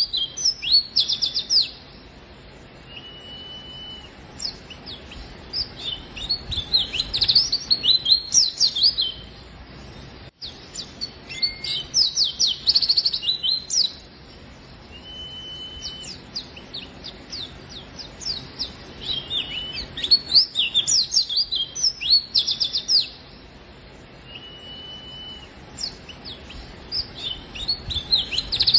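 Pleci (white-eye) singing vigorously: bursts of rapid, high twittering phrases a few seconds long, separated by short pauses, with a brief steady whistled note in three of the gaps.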